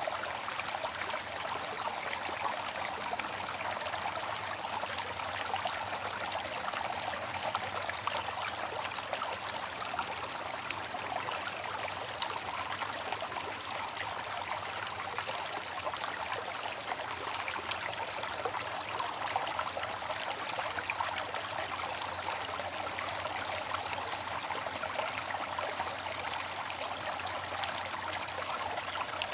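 Water fountain splashing and trickling steadily, with no change.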